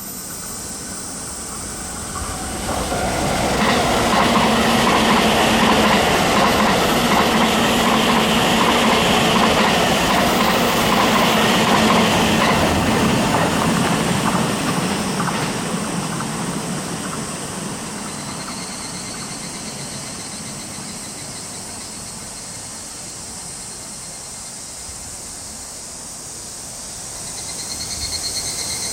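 Super Azusa limited express electric train passing on a curve of the Chuo Line. Wheels on rail build up about three seconds in, stay loudest for about ten seconds, then slowly fade.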